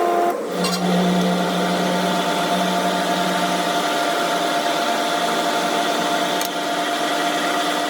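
A power tool's electric motor running steadily with a humming tone, dipping briefly about half a second in.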